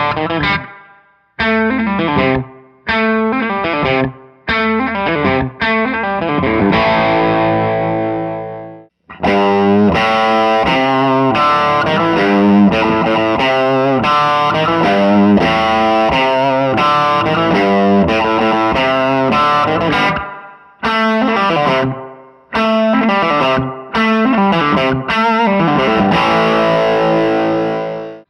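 Electric guitar through a tube amp set at the edge of breakup, lightly driven. First come short chord stabs that cut off abruptly, then a chord left ringing. Then comes a steady strummed riff for about ten seconds, and more short, choked chords near the end.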